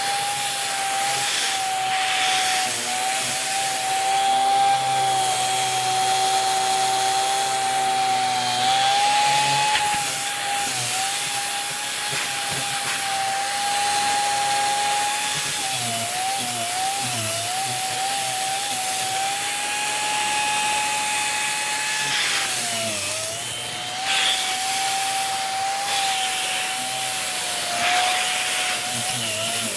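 Dyson Big Ball Animal cylinder vacuum running with its tangle-free turbo tool brushing a fabric throw. A steady high whine over rushing airflow, the pitch dipping and wavering now and then as the tool drags on the fabric.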